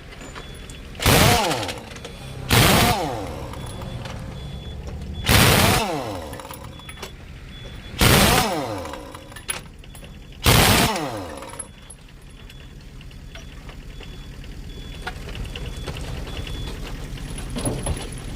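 Pneumatic impact wrench on truck wheel nuts, run in five short bursts a second or two apart, each spinning up and winding down. A steady low engine hum runs underneath.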